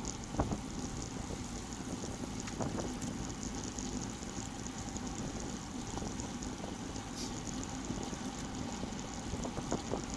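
Steady wind rushing over the microphone of a GoPro Session mounted on a moving road bicycle, with a few faint clicks.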